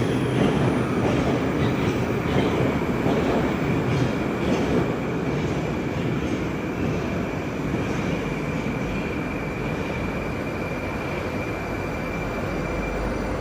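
Moscow metro train running on rails, the wheels clicking over rail joints, with a thin steady high whine that stops near the end while the rumble slowly eases.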